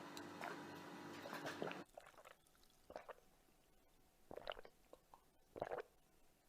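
A person drinking: a few short gulping swallows, spaced about a second apart. A steady background hiss at the start cuts off about two seconds in.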